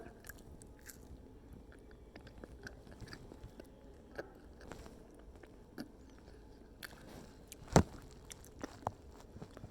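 A person chewing a last bite of spicy red chicken: faint, scattered small clicks and crunches of chewing, with one sharper click about three-quarters of the way through.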